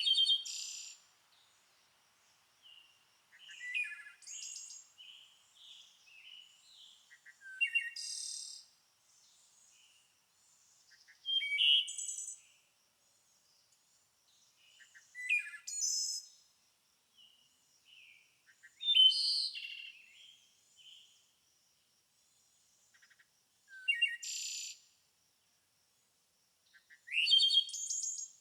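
A songbird singing short phrases of quick, high-pitched notes and rising sweeps, one phrase every three to four seconds, with near silence between them.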